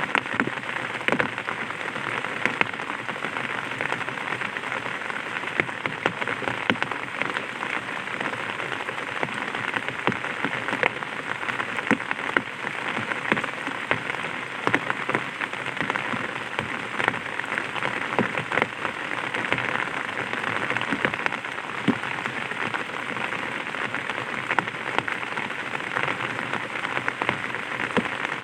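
Light rain falling on an umbrella: a steady patter with many individual drops ticking sharply on the canopy.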